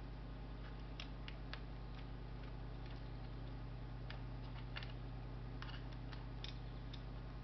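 Scattered small clicks and taps of plastic and metal laptop parts being handled during disassembly, over a steady low electrical hum.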